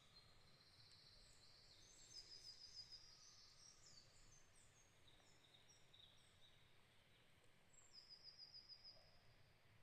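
Faint songbirds singing, several high whistled and trilled phrases overlapping, with a rapid trill of repeated notes about two seconds in and again about eight seconds in, over a faint steady hiss.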